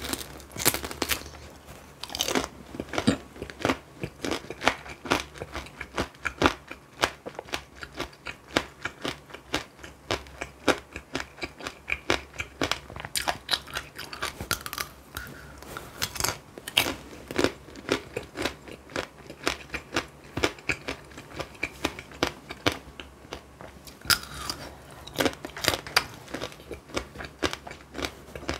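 Tanghulu being bitten and chewed: the hard, glassy sugar shell cracks and crunches between the teeth, several sharp crackles a second with louder bursts at each new bite.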